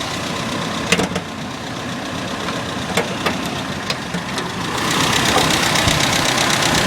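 Toyota 7K 1.8-litre gasoline inline-four engine idling steadily, with a few sharp clicks about one and three seconds in. It grows louder and brighter near the end.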